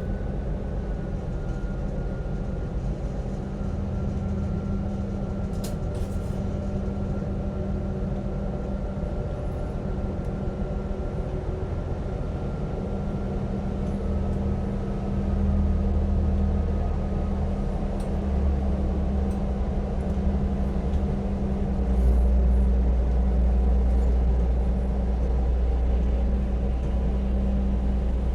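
Marine engine rumbling steadily, growing louder about halfway through and again near the end, with a faint whine slowly dropping in pitch.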